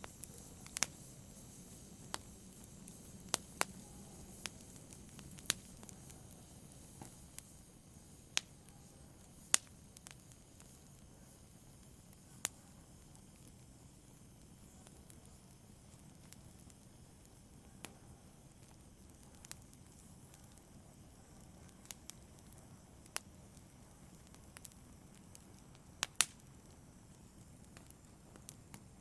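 Wood fire burning in a fireplace: a faint steady hiss with sharp, irregular crackles and pops, the loudest about a third of the way in and again near the end.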